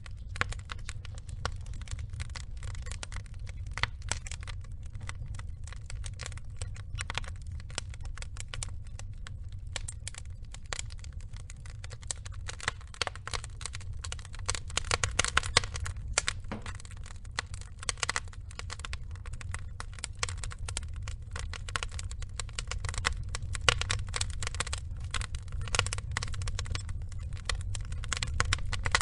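Burning logs crackling: a constant scatter of irregular pops and snaps over a steady low rumble, with busier spells of crackling about halfway through and again near the end.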